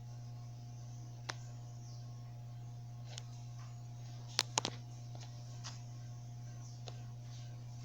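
Paraty ceiling fan running with a steady low motor hum, with a few sharp clicks, two of them close together about four and a half seconds in.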